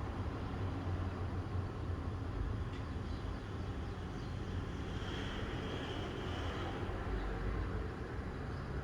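Steady low rumbling background noise, with a faint high-pitched tone about five to seven seconds in.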